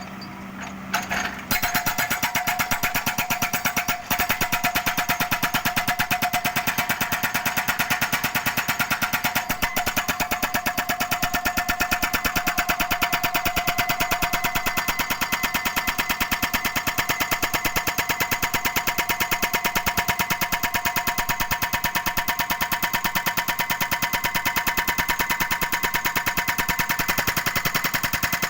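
Excavator-mounted hydraulic breaker hammering concrete road pavement: a rapid, steady train of blows that starts about a second and a half in and keeps going without a break.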